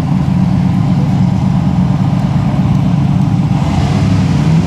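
A mud-bogging truck's big engine running loud and steady, a low drone holding a fairly even pitch.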